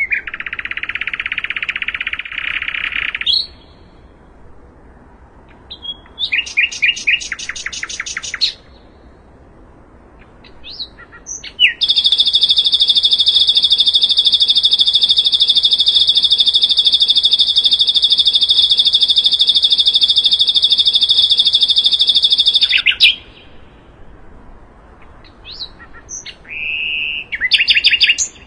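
Sikatan londo (an Indonesian songbird sold as a flycatcher) singing in separate phrases. A buzzy trill opens it, then a rapid rattle of repeated notes. After that comes one long, even, high trill of about eleven seconds, and a short burst near the end.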